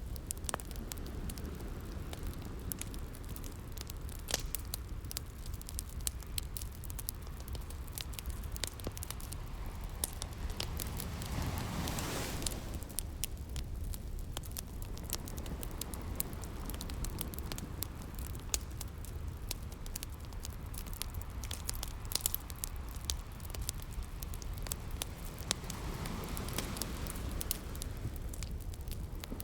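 Wood fire crackling with many sharp pops over the steady wash of sea waves. A wave swells up and falls away about twelve seconds in, and again near the end.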